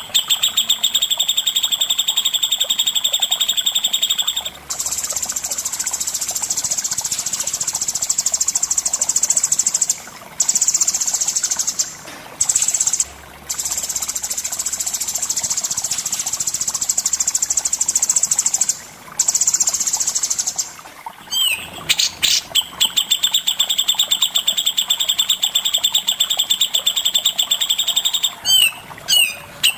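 Songbird from a cucak jenggot and cendet masteran recording singing long, very fast, even trills in the rapid 'besetan' style. Each trill runs for many seconds, broken only by a few short pauses.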